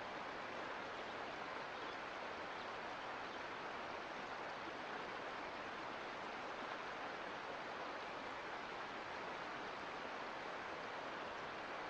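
Mountain creek water flowing over rocks, a steady even rushing with no breaks.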